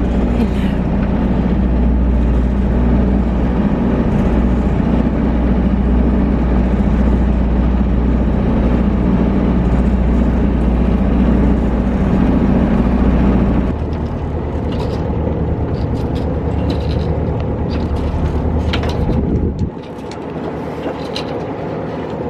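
Sailboat's inboard engine running steadily while motoring in calm water. About two-thirds of the way through, the sound shifts to a weaker hum with scattered clicks and ticks, and it drops again near the end.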